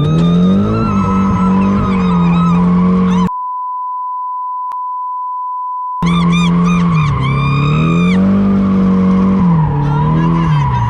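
Nissan 240SX drift car's engine revving up and down with the tyres squealing through a drift. About a third of the way in, the car sound is replaced for nearly three seconds by a steady censor bleep.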